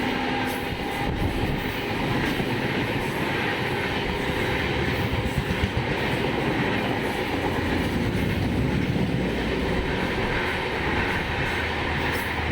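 Indian Railways Humsafar Express train passing through a station at speed without stopping: the steady rumble and rattle of its coaches running over the rails, with a few brief knocks.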